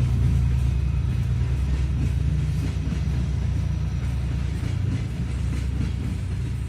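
Diesel locomotive (3TE10M) engines running with a steady low drone that slowly fades.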